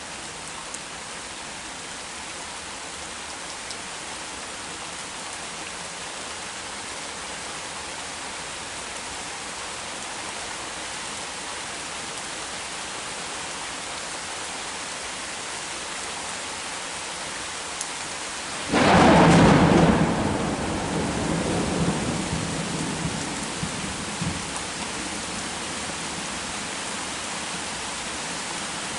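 Heavy rain falling steadily, then about two-thirds of the way in a sudden loud clap of thunder that rumbles on and dies away over several seconds.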